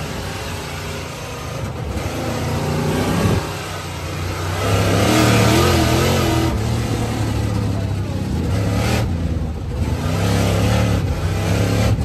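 A motor vehicle's engine running and revving, its pitch rising and falling several times.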